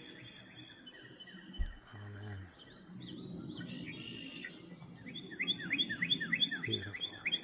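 Wild birds singing and chirping. From about five seconds in, one bird repeats a quick series of down-slurred notes, about three a second, which is the loudest part.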